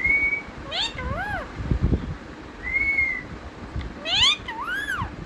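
Pet parrot calling in a string of rising-and-falling, cat-like calls, with two short held whistles between them. A few dull thumps come about two seconds in.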